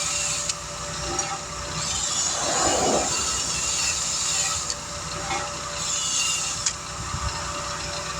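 A power tool running steadily with a wavering high whine, with a few short clicks, during work on a tire.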